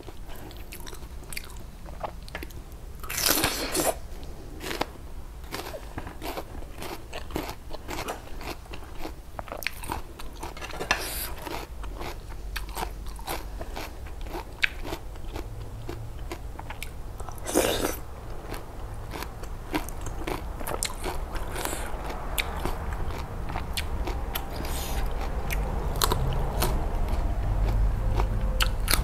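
Close-miked eating: crisp bites into raw vegetables and steady crunchy chewing, with two louder crunches about three and a half and eighteen seconds in.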